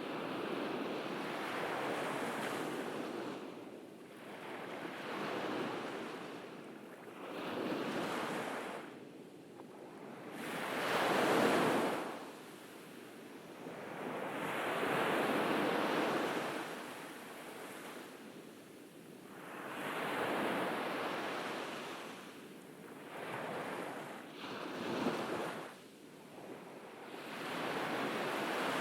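Small ocean waves breaking on a beach, each one swelling and washing out, about every three to five seconds. One wave near the middle is louder than the rest.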